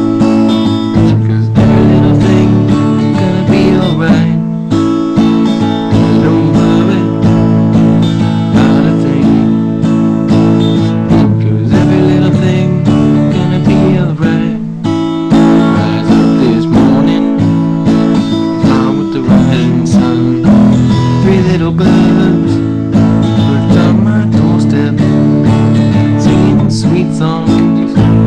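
Music: acoustic guitar strumming chords steadily.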